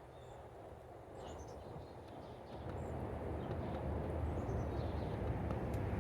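Small birds chirping around a feeder, with short high calls and quick runs of falling notes, over a steady low rumble that grows louder about halfway through.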